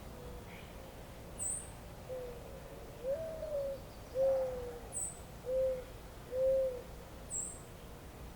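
A bird giving a series of about five low, soft hooting calls, the second rising in pitch, while another bird gives three short high chirps spaced a few seconds apart, over a faint steady hiss.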